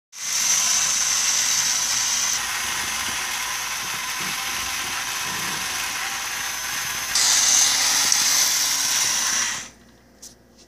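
Battery-powered toy forklift truck's small electric motor and gears whirring. It gets quieter about two seconds in and louder again about seven seconds in, then stops shortly before the end, followed by a few faint clicks.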